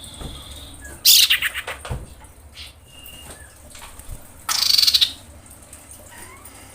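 Female common iora calling for a male in breeding condition: two loud, harsh rasping bursts, one about a second in and one about four and a half seconds in, with a few faint thin whistled notes between them.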